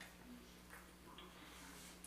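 Faint chewing and mouth sounds of someone eating a sub sandwich, a few soft clicks and smacks over a low steady hum.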